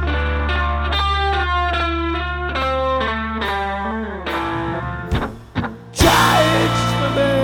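Live rock band's instrumental passage: a guitar picking quick single notes, several a second, over a held bass note, breaking off about four and a half seconds in. A few separate hits follow, then about a second later the band comes back in loudly with a long, wavering guitar note.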